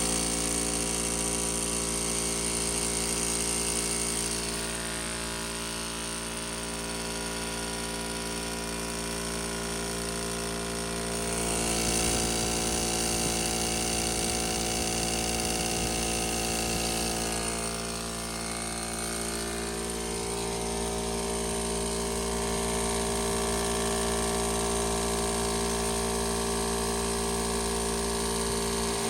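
Harbor Freight McGraw oil-lubricated air compressor running steadily, its electric motor and pump freshly refilled with 30-weight oil.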